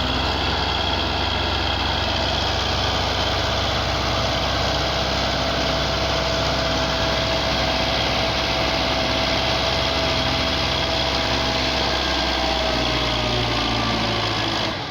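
Belarus 510 tractor's diesel engine running steadily, its pitch easing down slightly about twelve seconds in.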